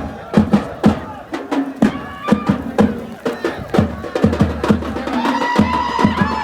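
Percussion-led dance music: loud, uneven drum strokes a few times a second, each with a low boom that drops in pitch.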